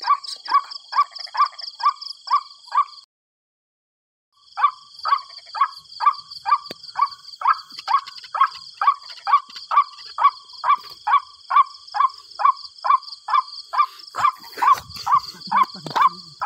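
White-breasted waterhen (ruak-ruak) calling: a rapid, evenly repeated series of short notes, about three a second, over a steady high insect trill. The calls stop for about a second and a half early on, then resume; some low rustling noise comes in near the end.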